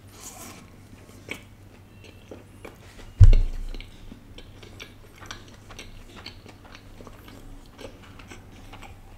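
A person chewing a mouthful of burger close to the microphone: many small, irregular clicks of the bite being chewed. About three seconds in there is one loud, low thump.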